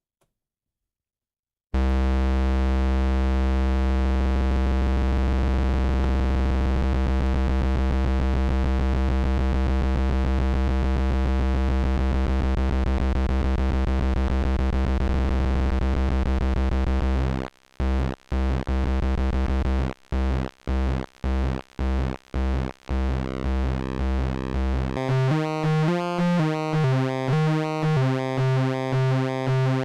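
Analog Eurorack oscillator (Little Monster VCO) playing a low, buzzy pulse-wave drone, its pulse width modulated by an envelope generator. The drone comes in about two seconds in and holds steady. Later it is chopped into separate pulses, and near the end it turns into a fast repeating pattern of about two notes a second with a shifting tone.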